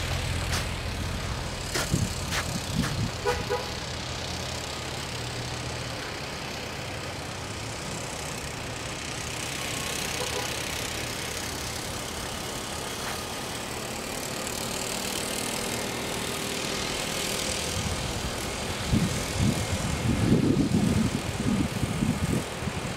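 Engine running steadily, with a low hum strongest in the first few seconds and a few sharp knocks about two to three seconds in; near the end, irregular low rumbling bumps.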